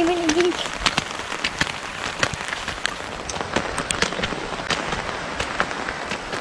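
Steady rainfall with many irregular sharp taps of drops landing close by. At the start a child's voice holds one wavering note and stops about half a second in.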